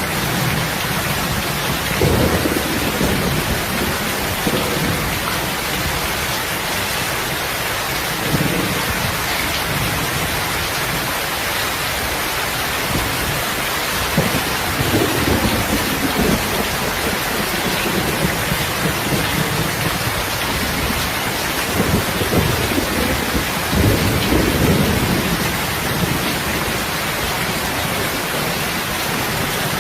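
Steady rain falling, with a few deep low swells that rise and fade across the stretch.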